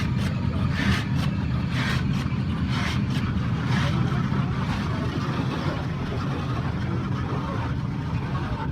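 Automatic car wash heard from inside the car: a steady low rumble, with water spray or brushes swishing against the car about once a second for the first four seconds.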